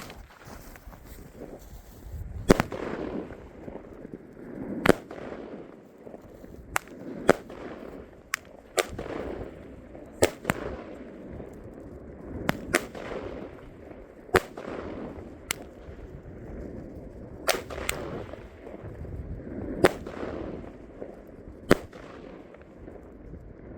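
New Year's fireworks: a dozen or more sharp bangs at irregular intervals, each followed by a rolling echo.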